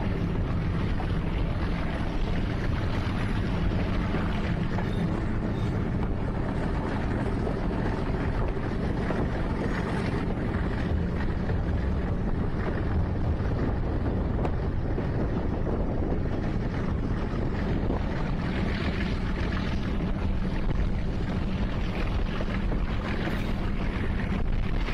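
Steady running noise of a passenger train coach moving along the track, heard from an open window, with wind buffeting the microphone.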